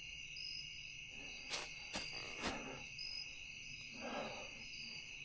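Night insect chorus: a steady shrill drone with a higher chirp repeating about once a second. A few sharp snaps and soft rustles come through about one and a half to two and a half seconds in.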